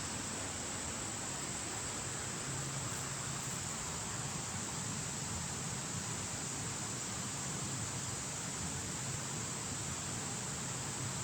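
Steady rushing of creek water, an even hiss with no change in pitch.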